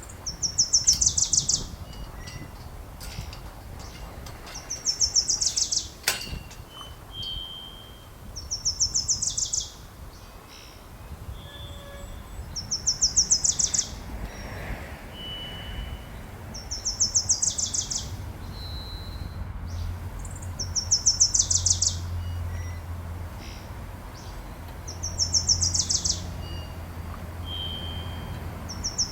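A songbird singing a fast trill of rapid high notes that drops in pitch at its end, repeated about every four seconds. Short single whistled notes from other birds sound between the songs.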